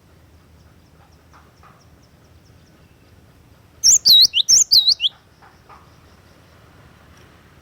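Glatik watu (cinereous tit) calling: a loud burst of about six sharp, high chirps about four seconds in, each a quick dipping whistle, packed into just over a second. Faint high ticking calls come before it.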